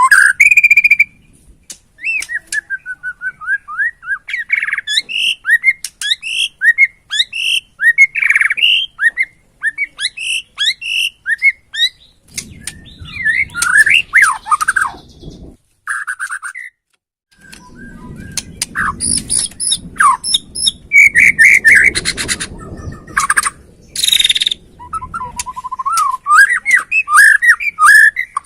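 Bornean songbird singing a fast, varied song of whistled notes, sliding phrases and chirps, used as a bait song to provoke a white-rumped shama. A low rumbling noise runs under the song for two stretches in the middle, with a brief pause in the song between them.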